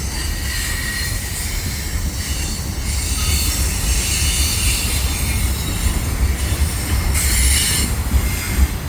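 Freight train rolling through a tight curve, its steel wheels squealing against the rails over a deep, steady rumble. The squeal swells loudest about seven seconds in.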